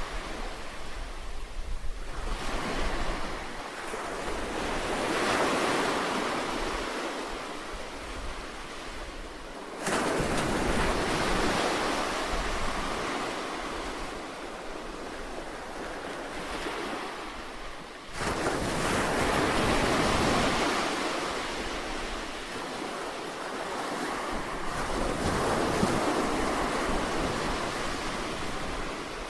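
Sea waves surging and breaking, rising and falling in slow swells every several seconds, with sudden surges in loudness about ten and eighteen seconds in.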